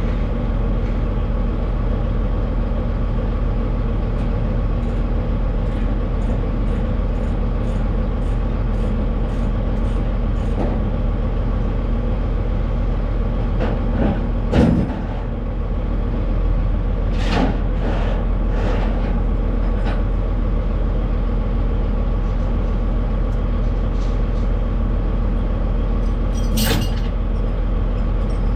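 Semi-truck diesel engine running steadily, heard from inside the cab, with a run of light ticks about two a second for several seconds and a few knocks. A short hiss comes near the end.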